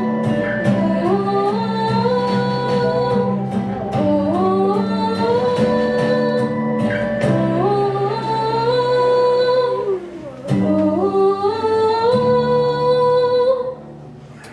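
A song sung over plucked guitar: the voice glides up into long held notes. The music dies away shortly before the end.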